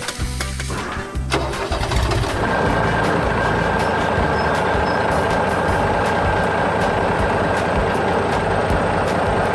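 Vehicle engine starting and then running steadily from about two seconds in, with background music.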